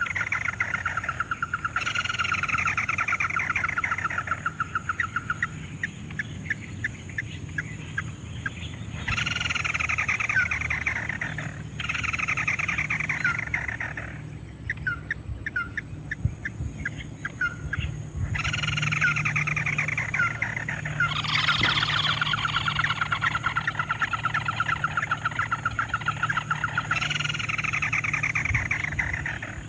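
Ruddy-breasted crake calls played from a recording as a trapping lure. A falling, rapidly pulsed trill is followed by a run of short ticking notes, and the sequence repeats several times.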